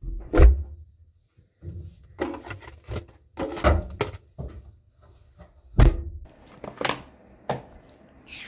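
Irregular thunks and knocks of objects being handled and set down, a dozen or so over several seconds. The loudest are just after the start and about six seconds in.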